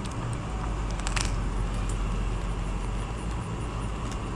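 Someone wearing dentures chewing crisp toast, with a few short crunches, the clearest about a second in, over a steady low rumble.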